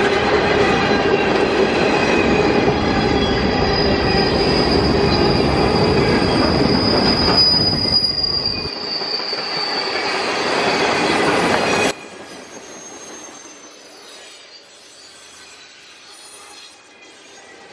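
Freight train cars rolling past with wheels squealing in several steady high tones over the rumble of the wheels. About twelve seconds in the sound drops abruptly to a faint, distant rumble.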